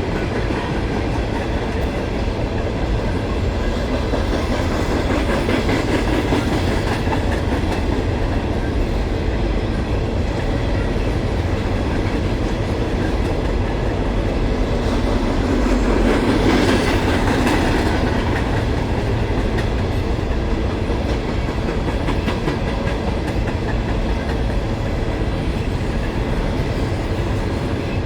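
Freight train of empty coal gondolas and hoppers rolling past, the wheels clicking and clattering over the rail joints over a steady rumble. The noise swells for a few seconds around the middle.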